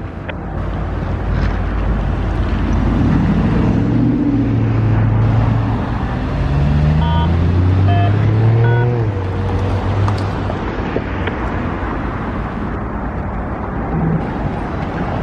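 Heavy vehicle engine running, its pitch climbing and then dropping away through the middle, with a few short high tones near the middle.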